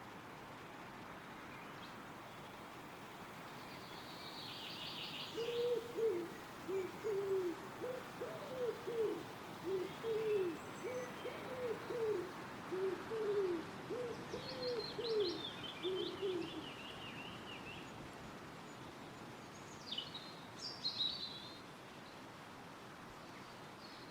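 A bird gives a long run of low hooting calls, about two notes a second for roughly ten seconds, under the steady rustle of wind in the trees. Short high twittering phrases from small songbirds come in three times: near the start of the hooting, towards its end, and once more a few seconds later.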